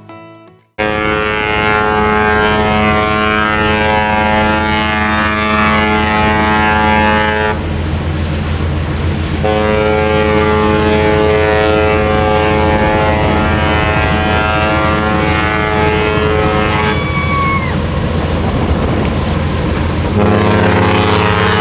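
Cruise ship horns sounding long, loud, steady blasts after a brief moment of silence. The horn chords overlap and change a few times, as in a horn exchange between ships. A couple of brief high chirps come in over the horns.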